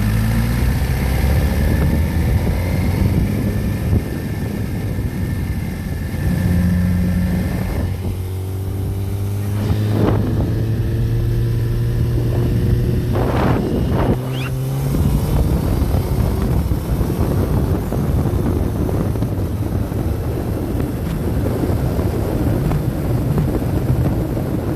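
Motorcycle engine running while riding, its pitch shifting up and down in steps with the throttle and gears, over steady wind noise on the microphone.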